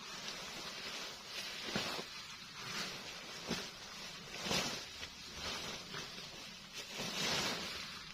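Irregular rustling and scraping noises, a few every couple of seconds, with a few sharp clicks among them.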